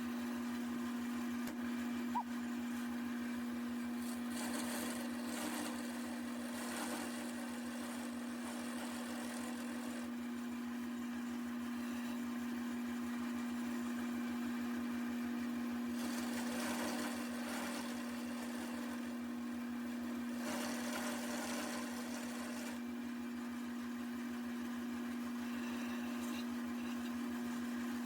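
Wood lathe running with a steady motor hum. Three times, about four seconds in, around sixteen seconds and around twenty seconds, a turning tool cuts into the spinning walnut leg blank, adding a rough hiss.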